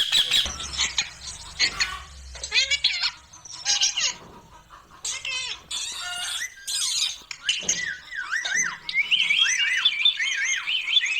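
Pet Indian ringneck parakeet calling: a string of short, sharp squawks, turning in the last couple of seconds into fast, repeated warbling chatter.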